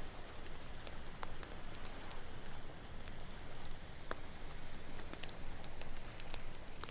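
Campfire crackling, with scattered sharp pops about once a second over a steady rushing hiss of ocean waves.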